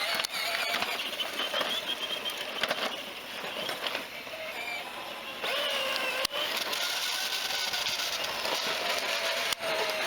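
A child's small motorbike running, its motor giving a whining note that rises and falls in pitch. The motor quietens for a couple of seconds in the middle, then picks up again.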